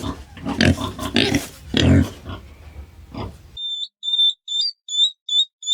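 An animal's harsh, noisy calls in repeated bursts, then after a sudden cut, a series of short, high-pitched chirps, about three a second.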